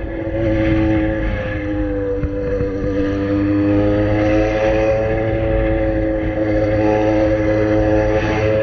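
Yamaha XJ6 inline-four motorcycle engine through a custom-made exhaust, running at steady revs under way. Its pitch dips slightly about two seconds in, then rises slowly and holds.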